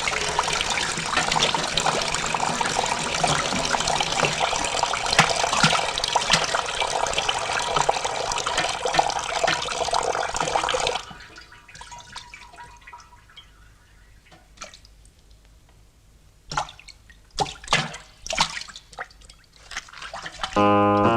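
Heavy rain pouring down, a dense splashing full of patter, that stops abruptly about halfway through. After it come faint drips and a few sharp knocks.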